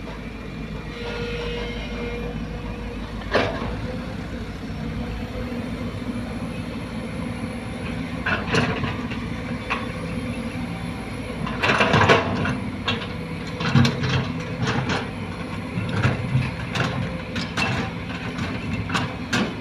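Diesel engines of a Sumitomo excavator and a dump truck running steadily while soil is loaded, with repeated sharp clanks and knocks throughout, the loudest cluster about twelve seconds in.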